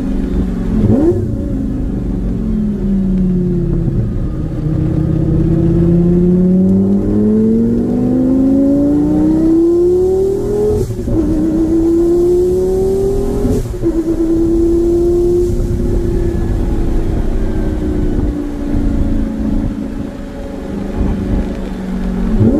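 Twin-turbo Lamborghini Gallardo V10 with a straight-pipe titanium exhaust, accelerating hard through the gears: a quick rev about a second in, then a long rising pull cut by a sharp upshift near the middle and a second upshift a few seconds later, after which it runs on at steadier revs.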